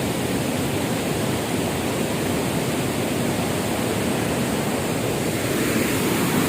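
Floodwater of a swollen river rushing steadily, a continuous even roar of water.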